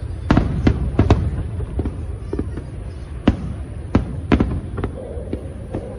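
Fireworks display bursting: a run of sharp bangs over a steady low rumble of further bursts. Several loud bangs come close together in the first second or so, and more come about three to four and a half seconds in.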